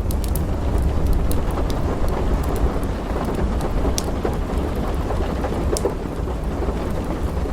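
Steady rain with a continuous low thunder rumble, dotted with scattered sharp pops and crackles from a wood fire in a fireplace.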